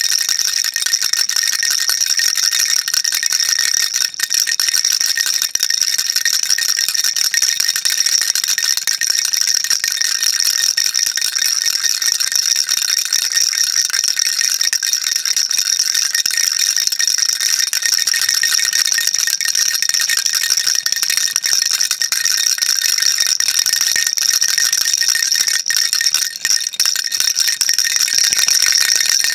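Baby rattle shaken continuously: a dense, steady rattling with a high ringing tone running through it.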